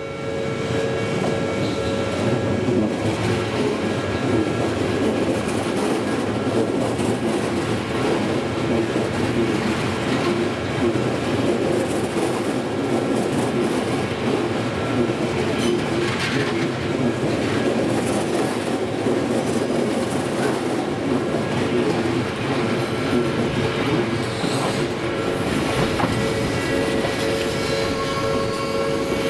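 Odakyu electric trains, a limited express and a rapid express, passing over a level crossing: a continuous rumble of wheels with clatter over the rail joints. Steady ringing tones run underneath.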